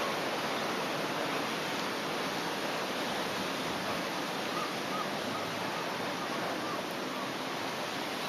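Strong typhoon wind blowing with a steady rushing hiss.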